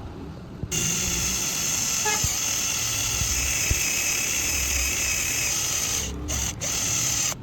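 Electric power tool running steadily while a motorcycle gear lever is worked on. It starts under a second in and falters twice briefly near the end.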